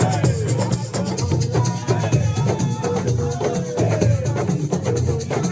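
Assiko band playing: a fast, even shaker rhythm over drums, with voices singing.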